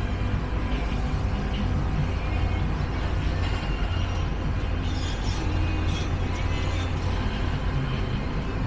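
Outdoor street ambience: a steady low rumble of engines, with faint music underneath.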